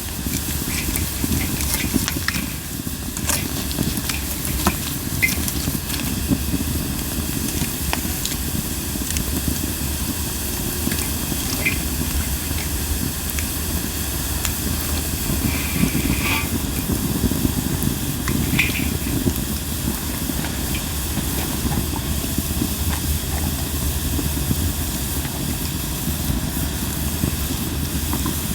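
Linden-wood campfire burning: a steady hiss and low rumble of flame, with scattered sharp crackles and pops and a few short higher-pitched hisses from the burning wood.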